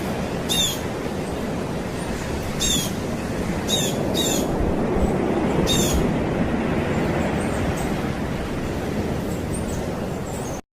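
A steady low rumble with a bird giving short, sharp calls about six times over it, the calls bunched in the first half. The sound cuts off abruptly near the end.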